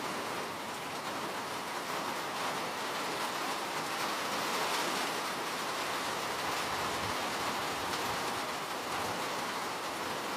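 Steady rain falling, an even hiss of many drops with fine scattered patter.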